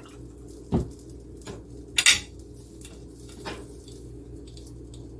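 Pots, pans and utensils clattering while cooking: a dull knock about a second in, a louder sharp double clatter about two seconds in, then a few lighter clicks, over a steady low hum.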